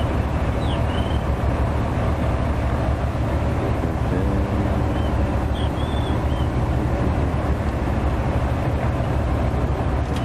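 Fishing boat's engine running steadily under way, a constant low rumble with wash noise over it, and a few faint short high squeaks about a second in and again around the middle.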